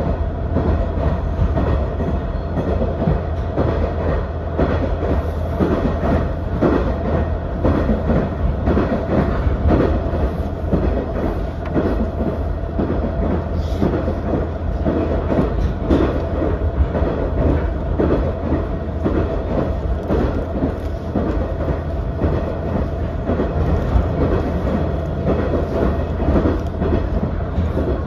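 Running sound of a KiHa 110 series diesel railcar under way, heard from inside the passenger cabin: a steady diesel drone with an irregular clatter of the wheels on the track.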